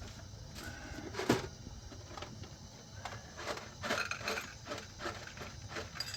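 Tea glasses and dishes clinking and knocking as tea is served: a scatter of small clicks, one sharp knock about a second in, and a quick run of taps near the end with a brief glassy ring.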